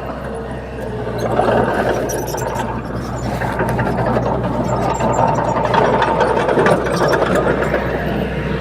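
Bulldozer's diesel engine running steadily, with scattered short clicks and knocks over its rumble.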